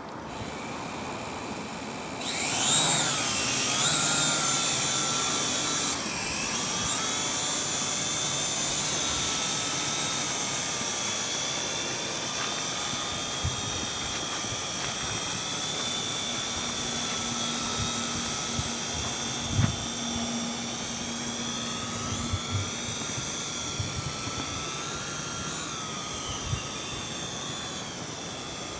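Small camera quadcopter drone's propellers and motors whining. About two seconds in they spin up with a rising pitch, then hold a steady high whine whose pitch wavers as the drone changes throttle.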